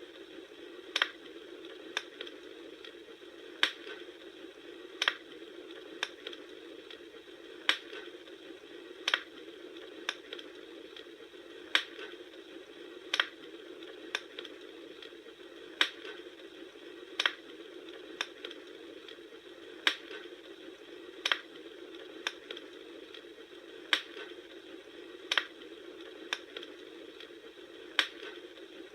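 Campfire crackling: sharp pops at a fairly even pace, roughly one every second and a half, over a steady low hiss.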